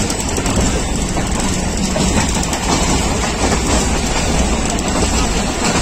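Running noise of a moving passenger train, heard from inside a coach at an open window: a steady rumble of wheels on the rails.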